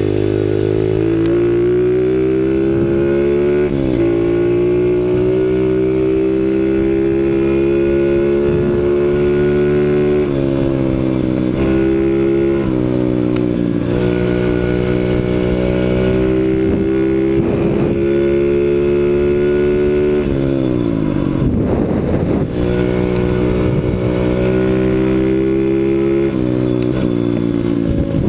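A CRZ 125 Pro pit bike's small single-cylinder engine is ridden under throttle. The revs climb steadily, dip briefly at gear changes a few seconds in and again around a third of the way through, then drop sharply about two-thirds through as the throttle is closed. The engine picks up again near the end.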